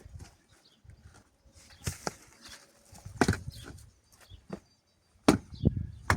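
Sharp knocks or chopping strikes, a handful at irregular intervals, the last two the loudest, with faint bird chirps in the background.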